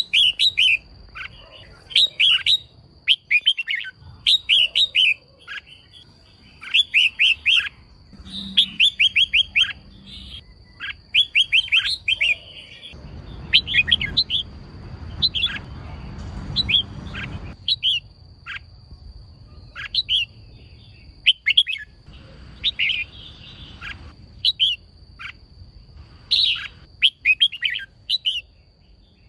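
Female red-whiskered bulbul calling in repeated bursts of quick, sharp chirps, the call that keepers play to stir males into singing. A thin steady high whine runs underneath, and a low rushing noise comes up for a few seconds in the middle.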